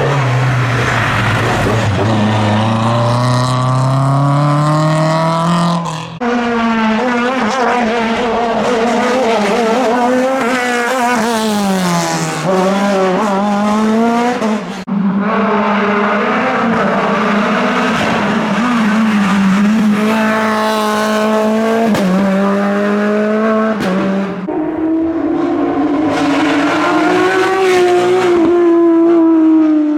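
Rally cars on a hill climb, engines revving hard: the pitch climbs as they accelerate and drops at each gear change and under braking. The sound changes abruptly about 6, 15 and 24 seconds in as one car gives way to the next.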